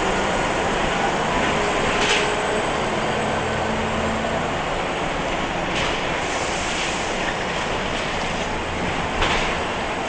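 Scania L94-UB city bus with ZF automatic gearbox running along: a steady engine and rolling rattle, broken by three short sharp knocks or hisses about 2, 6 and 9 seconds in.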